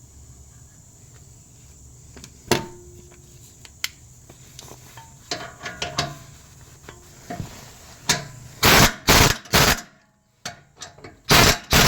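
Hand tools clinking and knocking on the muffler and exhaust fittings of a car during reinstallation, scattered sharp metal taps over a low hum. Near the end come several loud, short harsh bursts, three in quick succession and then one more.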